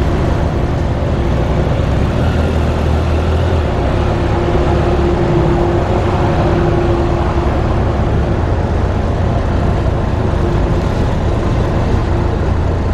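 Triumph Tiger 800 three-cylinder motorcycle being ridden, its engine running steadily under loud, even road and wind noise.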